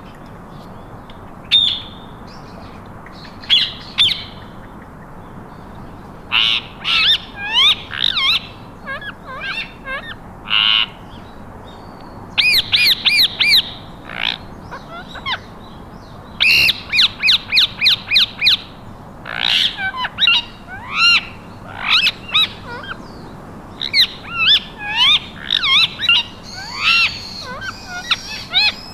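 Ringneck and Alexandrine parakeets calling: short, sharp squawks and chirps, many sliding in pitch. The calls come scattered at first, then in quick runs of rapid repeated notes about halfway through, and they keep going to the end.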